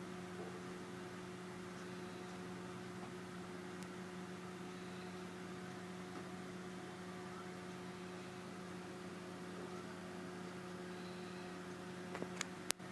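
Steady low electrical hum over faint hiss, with a few short clicks near the end.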